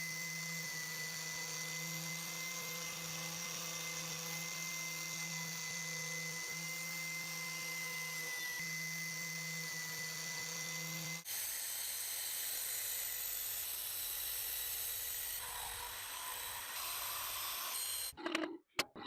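Small electric power tool running steadily with a thin high whine over its hum. After about eleven seconds it gives way suddenly to a different steady grinding hiss, and a few sharp clicks come near the end.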